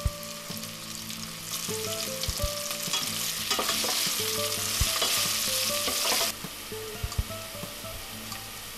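Onions and sage sizzling in hot olive oil in a stainless steel saucepan while being stirred with a wooden spatula. The sizzle swells in the middle, then drops abruptly a little past six seconds in to a quieter frying, with a few soft knocks.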